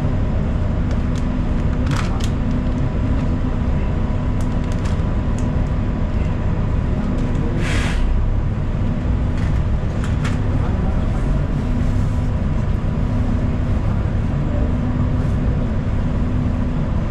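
A city transit bus heard from inside the cabin while riding: steady engine and road rumble with small rattles and clicks. A short hiss comes about eight seconds in.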